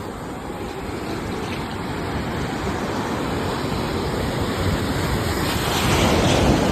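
Sea waves breaking and washing on a shore, a steady rush that swells toward a peak near the end.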